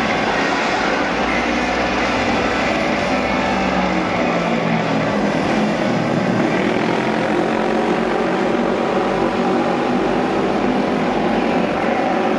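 Several auto race motorcycles' engines running hard together as the bikes lap the oval, a dense steady engine noise with pitches rising and falling.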